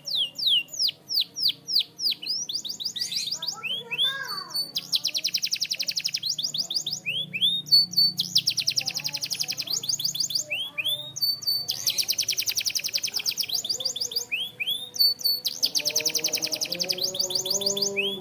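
Canary singing a repeating song: runs of quick falling whistled notes, about four a second, alternating with fast, high trills of a second or so, the pattern coming round about every three and a half seconds.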